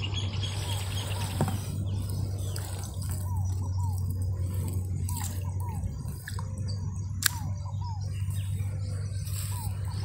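Lakeside ambience: a bird repeats short falling notes about twice a second over a steady low hum, with a sharp click about seven seconds in.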